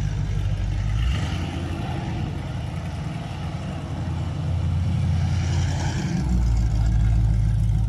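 Chevrolet Camaro's engine revving hard as the car spins donuts on tarmac. The revs ease off about a second in and build again near the end.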